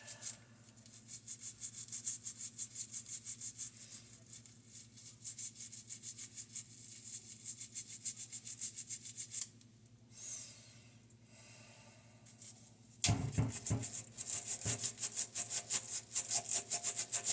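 A scrub brush working soapy plastic action-figure parts in quick back-and-forth strokes, several a second. The scrubbing pauses for a few seconds about two-thirds of the way in, then resumes.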